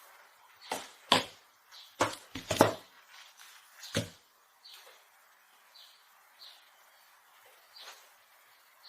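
Soft lumps of modelling clay slapped and pressed by hand, about six sharp thuds in the first four seconds, two of them close together. Faint short bird chirps follow in the background.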